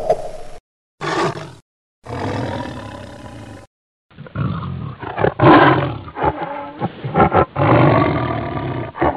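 A run of separate animal sound-effect clips with dead-silent gaps between them. The longest, starting about four seconds in, is a large wild animal roaring and growling in a string of loud calls.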